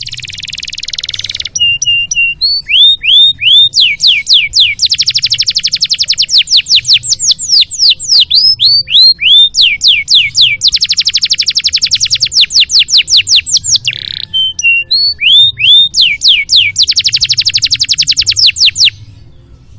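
Domestic canary singing a long, varied song: runs of very rapid rolling trills alternate with series of quick rising whistled notes. It is loud, and the song stops about a second before the end.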